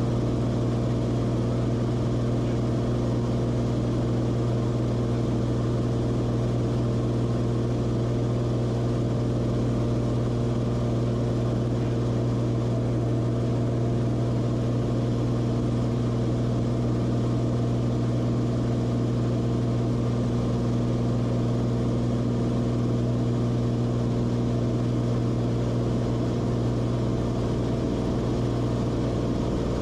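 Cessna Corvalis TTX's turbocharged six-cylinder Continental engine and propeller running steadily in flight: an even drone with a strong low hum that holds the same pitch throughout.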